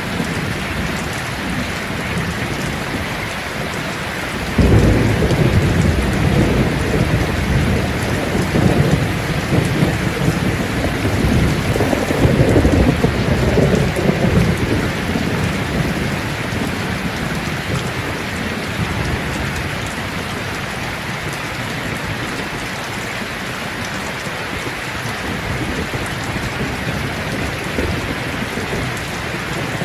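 Steady rain falling on leaves, with a roll of thunder that breaks in suddenly about four seconds in and rumbles for about ten seconds before fading back into the rain.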